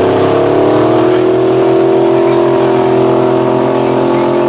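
Truck engine revved hard and held at high revs, its pitch climbing slightly at first and then staying steady.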